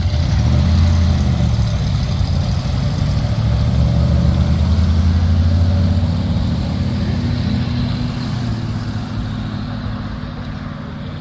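A car engine running loudly with a deep, pulsing note, swelling in the first second and slowly fading toward the end.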